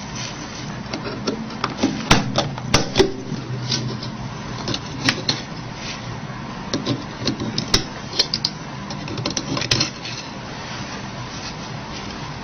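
Irregular small metallic clicks and taps, a few sharper than the rest, as tools work the springs of a Nokia 8800's slider mechanism off their studs, over a steady low hum.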